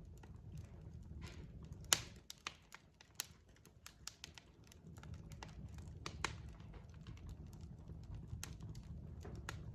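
Wood fire crackling: irregular sharp pops and snaps from burning logs, the loudest about two seconds in, over a low steady rumble of the flames.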